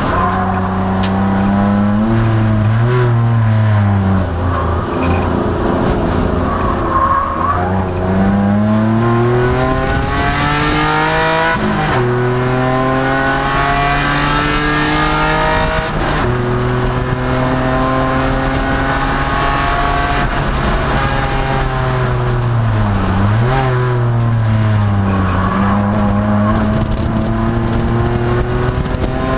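2002 Nissan Maxima's 3.5-litre V6 race engine heard from inside the car at speed, the revs climbing through the gears with sharp drops at two upshifts and falling away at braking points before pulling up again.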